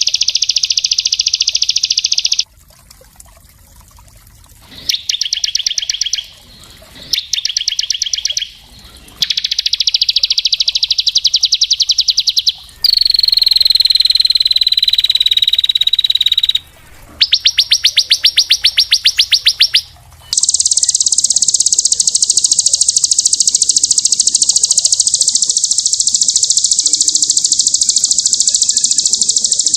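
Small songbird singing very fast, dense trills in bursts of one to three seconds separated by short pauses. Near the middle comes one long whistle falling slightly in pitch, and over the last third a long unbroken trill.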